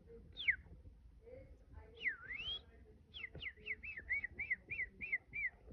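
Clear whistled notes: a single falling whistle, then a swooping down-and-up whistle, then a quick run of about ten short falling notes, roughly four a second.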